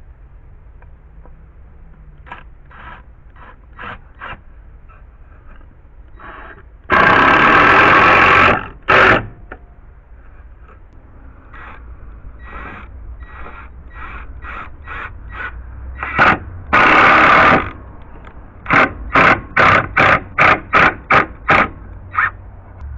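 Power tool working deck lumber: two loud bursts of about a second and a half each, separated by light knocks and handling, then a quick run of about ten short bursts, roughly three a second, near the end.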